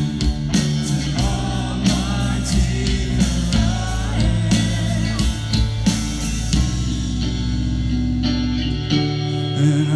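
Live rock band playing: electric guitars, drums and singing. The drum hits stop about two-thirds of the way through, leaving held, ringing guitar chords.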